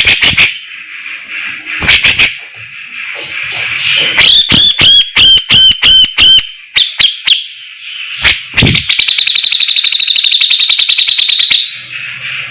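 Cucak jenggot (grey-cheeked bulbul) singing. First come a few sharp clicking notes, then about four seconds in a run of about seven loud hooked whistles, and near the end a rapid, even trill lasting over two seconds, over a steady background hiss.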